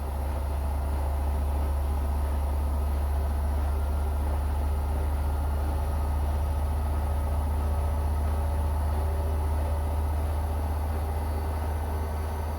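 Washing machine running with a steady low hum that swells over the first second, then holds level.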